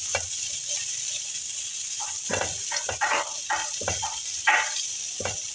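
Sliced onions and green capsicum frying in oil in a nonstick pan, with a steady sizzle. From about two seconds in, a silicone spatula stirs them and scrapes the pan in a run of short, irregular strokes.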